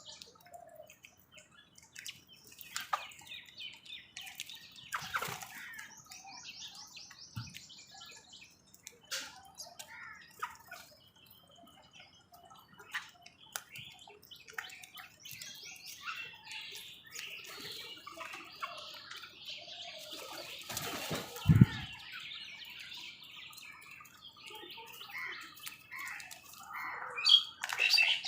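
Crows and other wild birds squabbling over food: scattered chirps and calls with flurries of wing flapping. There is one sharp thump about three-quarters of the way through, and louder, harsh crow calls near the end.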